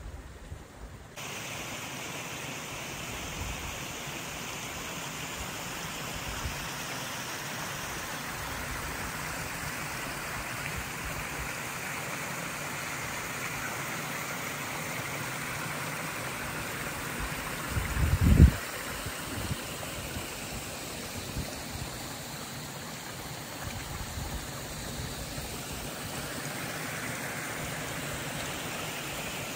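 Creek water running steadily over rocks. A few seconds past halfway there is a brief, loud low rumble.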